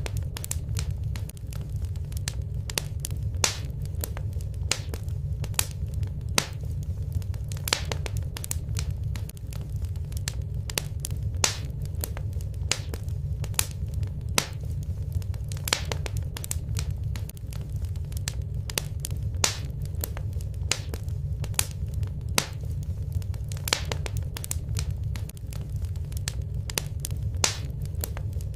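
Fireplace fire crackling: sharp, irregular pops and snaps, about one or two a second, over a steady low rumble of flame.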